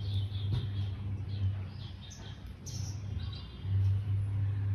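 A small bird chirping in short, quick, high notes that repeat several times a second, then thin out, over a steady low hum.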